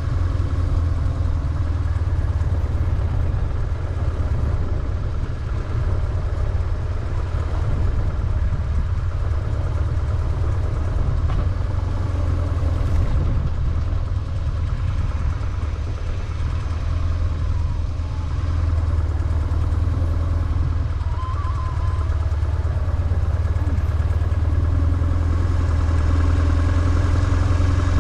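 BMW R1150GS boxer-twin motorcycle engine running under way, a steady low thrum whose note dips and rises a few times as the throttle changes.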